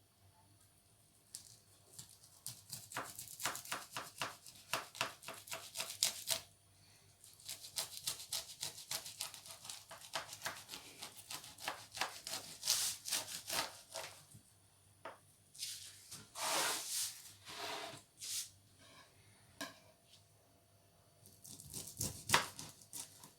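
Bursts of rapid crinkling and crackling clicks, each run lasting a few seconds with short pauses between.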